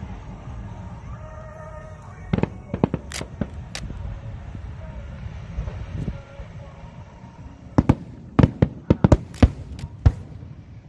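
Aerial fireworks bursting: a handful of sharp bangs about two seconds in, then a denser run of about ten bangs in quick succession from about eight seconds in, over a low steady background rumble.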